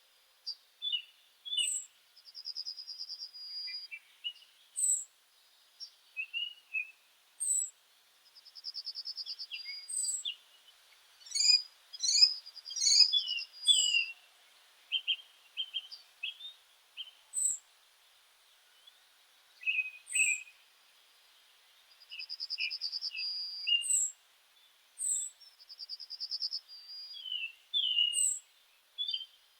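Several meadow songbirds calling and singing. A thin, very high falling note repeats every two seconds or so, buzzy trills of about a second and a half come now and then, and short chirps fill the gaps.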